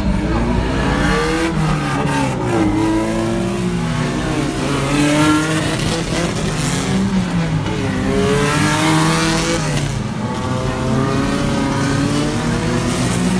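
Several racing car engines revving and accelerating at once, their overlapping pitches rising and falling as the cars pull away and move around the track.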